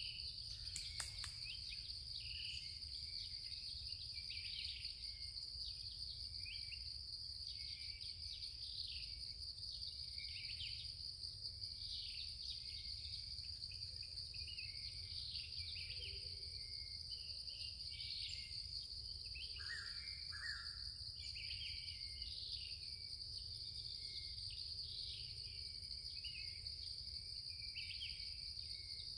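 Forest ambience: insects keep up a steady, high-pitched drone, with frequent short bird chirps over it.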